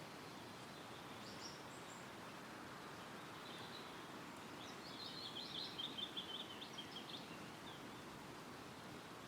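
Wind rustling steadily through woodland trees, with small songbirds singing: a couple of brief high chirps about a second in, then a fast twittering song phrase from about halfway through that is the loudest sound and lasts a few seconds.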